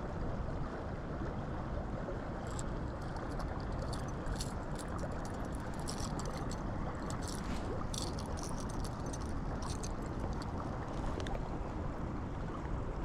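Steady low rumbling noise from a small fishing boat on the water, with scattered light clicks and ticks.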